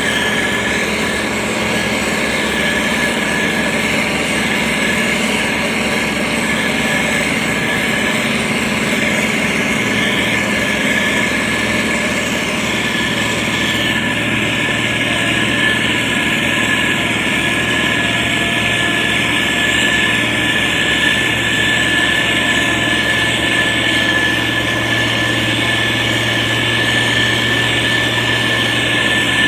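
A heavy motor grader's diesel engine running steadily under work, with a constant high whine over the engine drone. The low engine note grows stronger about a third of the way through.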